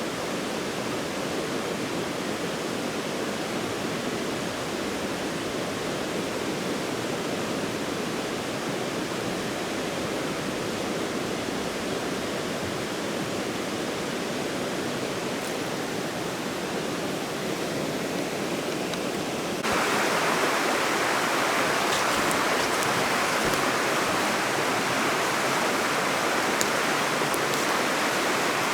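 Stream water rushing steadily. About two-thirds of the way through it switches abruptly to a louder, brighter rush of faster water.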